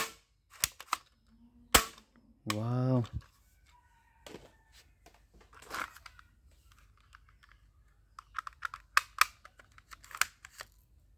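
Sharp plastic clicks and taps from toys being handled: a few single clicks, then a quicker run of clicks near the end. A voice says 'wow' once, early on.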